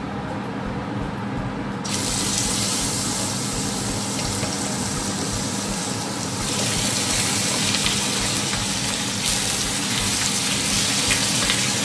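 Chicken legs sizzling as they are laid into hot fat in a pot: a steady hiss that jumps louder about two seconds in and again about six seconds in as more pieces go in, over a steady low hum.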